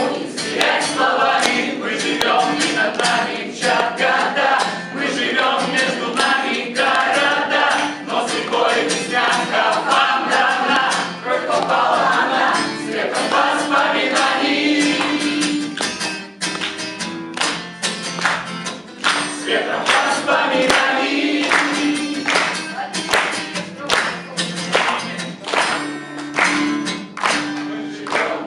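A group of voices singing a song together, with sharp percussive beats throughout.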